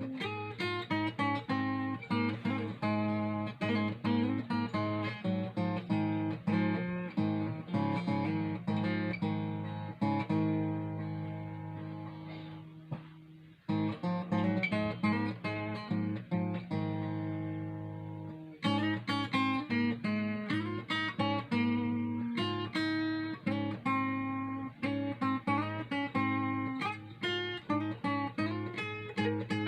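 Ovation Applause AE27 roundback acoustic guitar played unplugged and tuned below standard pitch, picking runs of notes and chords. About ten seconds in, a chord is left to ring and fades almost to nothing before the playing picks up again.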